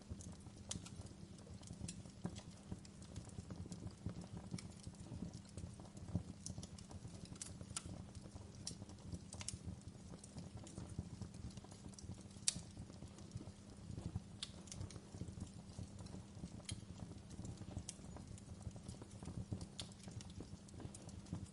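Wood fire crackling in a fireplace: a faint low rumble of burning with scattered sharp pops and snaps at irregular intervals, the loudest pop about twelve seconds in.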